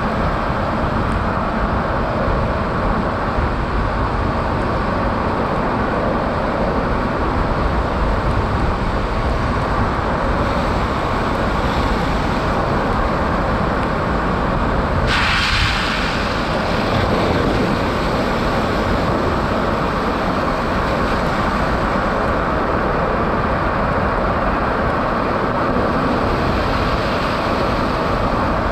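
Steady road noise from a Tesla Cybertruck driving on a snow-covered highway: tyre and wind noise with no engine sound, since the truck is electric. A brief louder hiss cuts in about halfway through.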